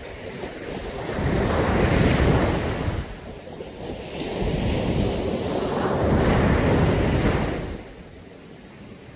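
Caribbean sea surf: two waves break and wash in, the first swelling about a second in, the second about four seconds in, then dying away near the end.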